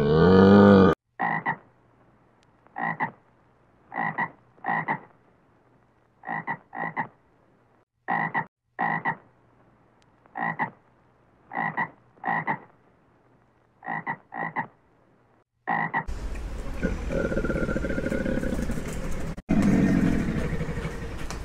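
An animal's short croaking calls repeated about once a second, often in pairs, about fifteen in all. A loud drawn-out call ends about a second in, and a rougher, noisier animal sound takes over in the last few seconds.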